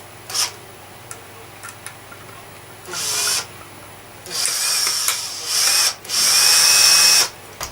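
Cordless drill-driver running in three bursts, a short one and then two longer ones, its motor whine rising and falling, as screws are driven during reassembly of a vacuum cleaner. A sharp click comes just before the first burst.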